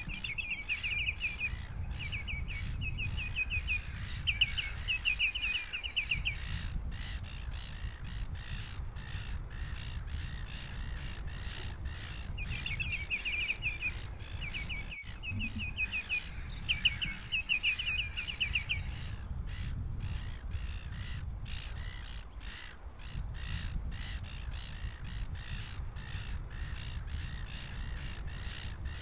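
A bird calling in two long bouts of rapid, high repeated notes, the first from the start to about six seconds in and the second from about twelve to nineteen seconds in, over a steady low rumble.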